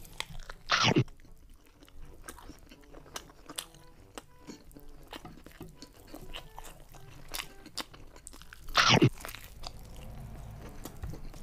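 Close-up chewing and crunching of garlic fried chicken, with many small wet clicks and two loud crunchy bites, one about a second in and another near the end.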